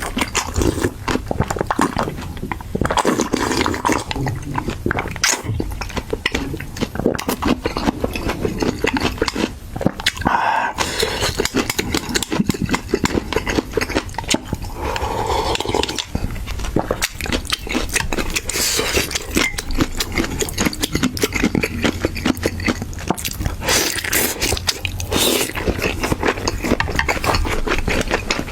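Close-up chewing and biting on braised chicken feet: a continuous run of small mouth clicks and smacks.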